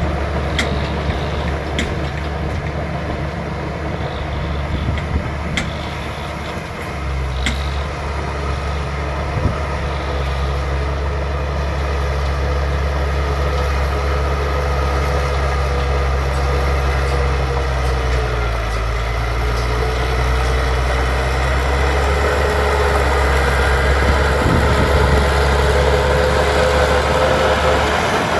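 Bulldozer's diesel engine running steadily, deepening and working harder from about seven seconds in, with a faint high mechanical whine and a few sharp metallic clicks in the first several seconds.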